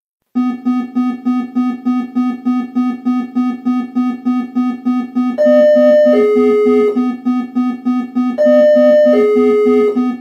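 Electronic panic alarm: a synthesized low buzzing tone pulsing about three times a second. About five and a half seconds in, and again about eight and a half seconds in, a louder two-note high-low tone sounds over it.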